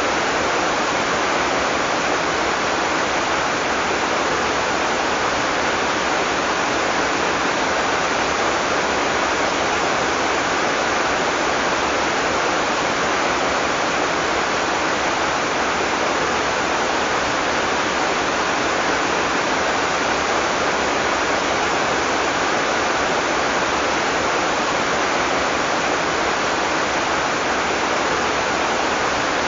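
Heavy tropical rain falling as a steady, even downpour.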